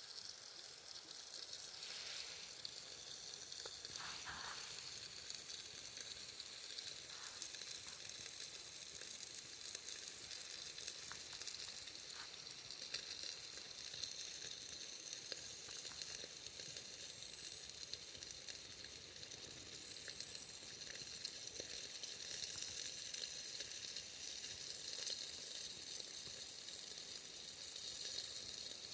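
Wood campfire burning: a steady hiss with frequent small crackles and an occasional louder pop.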